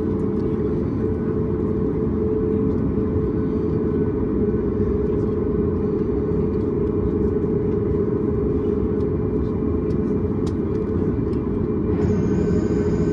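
Cabin noise of a Boeing 737 MAX 8 on the ground: a steady rumble and hum of its CFM LEAP-1B engines at low power. Near the end a brighter hiss with higher-pitched whine tones comes in abruptly.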